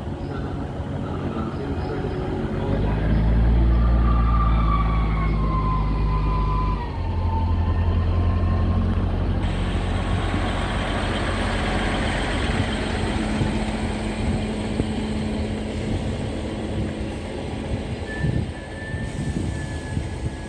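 Class 158 diesel multiple unit's engines running at the platform. A deep engine note rises about two or three seconds in and shifts to a different pitch around seven seconds, with brief high gliding whines. From about ten seconds on it gives way to a steadier rushing noise.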